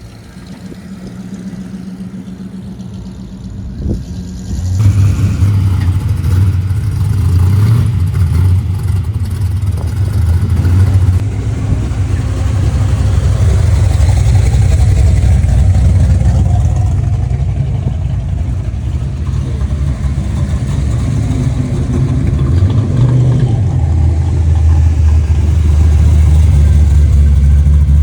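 A car engine running with a deep, low rumble. It gets much louder suddenly about five seconds in and stays loud, typical of a big muscle-car engine close by.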